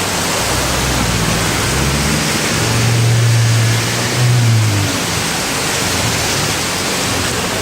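Steady rush of heavy rain and running water. A vehicle engine's low hum comes in about half a second in, grows loudest around three to four seconds in, and fades by about five seconds.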